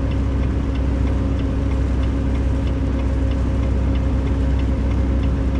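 Inside a moving semi-truck's cab: steady engine and road noise with a constant hum, and a faint, regular ticking over it.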